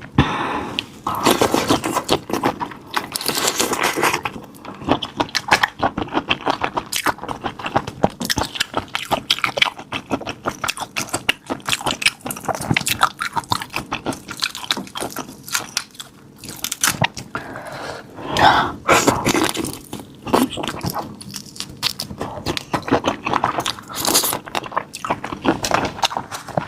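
Close-up chewing and biting of raw marinated black tiger prawns: many quick, crisp crunches as the shells crack between the teeth, with short pauses between mouthfuls.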